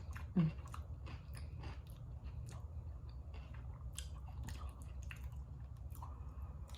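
A person chewing food close to the microphone: scattered wet mouth clicks and smacks of chewing, with a brief low voiced 'mm' about half a second in.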